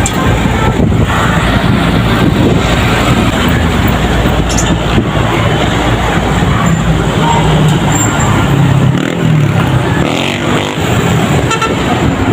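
Road traffic with trucks going by: engines running and tyre noise, loud and steady, with an engine note rising out of it for a few seconds in the middle.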